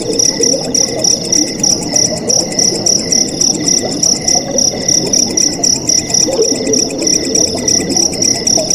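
Night crickets chirping in an even pulsing rhythm, about three pulses a second, with other insects trilling steadily alongside and flowing water gurgling underneath.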